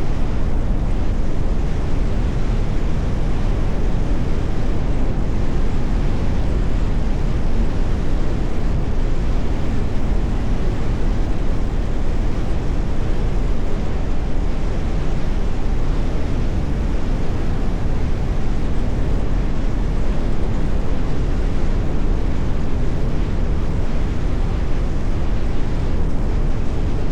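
Steady low rumble of a car driving along at speed: road and tyre noise with wind on the microphone, no single events standing out.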